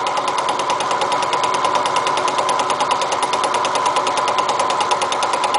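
Small milling machine running a fly cutter, made from a modified boring bar, in a very light facing cut across steel railroad-track rail. There is a rapid, even pulse over a steady whine.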